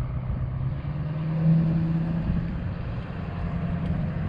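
A motor vehicle's engine running steadily, its low hum rising slightly in pitch about a second in and settling lower again after a couple of seconds.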